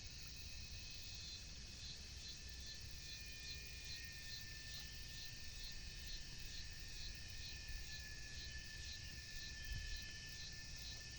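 Insects calling: a steady high buzz with thin steady trills, and a short chirp repeating about three times a second, over a low rumble of wind.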